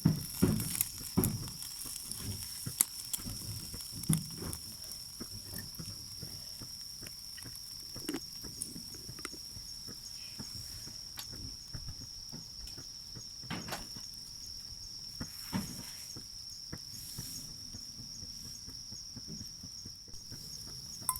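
Crickets chirping in a steady high trill, with scattered sharp clicks and knocks, most of them in the first few seconds.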